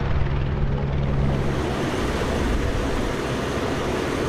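Aircraft engine drone with a steady low hum that fades after about a second and a half, leaving an even rushing noise.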